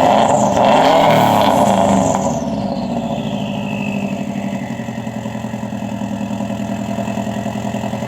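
Subaru WRX's turbocharged flat-four exhaust revved once at the start, then dropping back over a second or two to a steady, even-pulsed idle.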